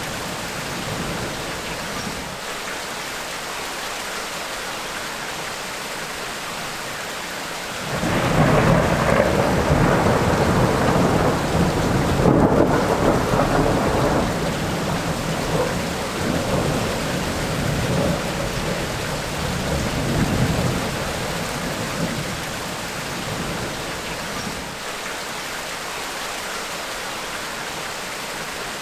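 Steady heavy rain of a tropical rainstorm. About a third of the way in, a long roll of thunder rumbles in suddenly, swells for several seconds and fades away, leaving the rain.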